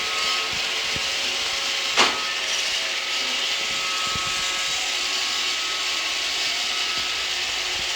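Roomba robot vacuum running with a steady whirring hum of its motors and brushes, with one sharp knock about two seconds in.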